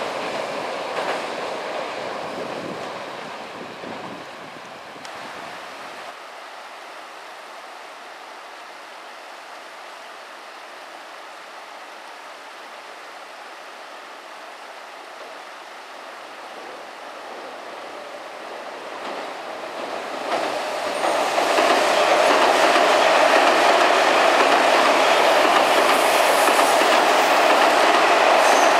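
Odakyu electric trains on a river bridge: one train's running noise fades away over the first few seconds, then a steady background hiss, and from about 19 s another train approaches and passes loudly with a steady rumble and rail-joint clatter.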